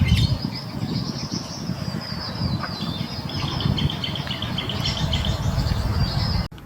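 High, thin bird calls: a continuous wavering note with a quick run of chirps in the middle, over a steady low rumble. The sound cuts off abruptly near the end.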